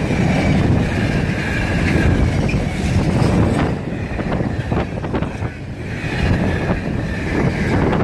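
Loaded container wagons of a freight train rolling past at speed: a loud, steady rumble from the wheels on the rails, with irregular sharp wheel clicks.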